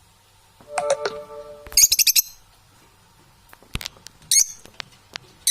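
Pet parrots calling: a short, lower-pitched call about a second in, then a quick run of shrill chirps. A sharp click and a couple more single shrill chirps follow.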